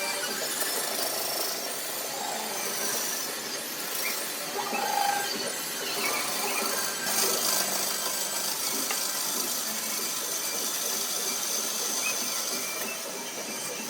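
Steady machining noise from a workshop power tool working on a part.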